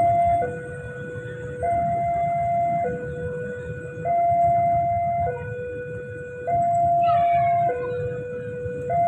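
Railway level-crossing warning alarm sounding: an electronic two-tone signal switching back and forth between a lower and a higher note, each held a little over a second, over a low rumble. It warns that a train is approaching the crossing.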